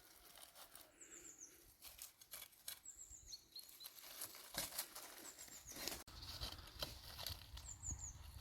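A small bird gives a quick run of three or four high, falling notes four times, about every two seconds, over faint scattered clicks and rustling.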